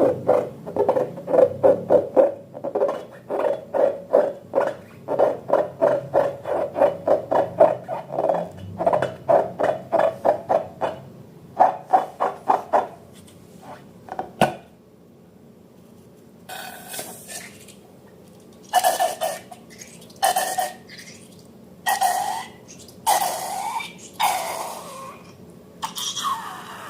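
Rubber balloons squeaking and squealing. For about the first 13 seconds there is a fast run of short squeaks, several a second. After a brief pause, from about 16 seconds in, come separate longer squeals that bend up and down in pitch.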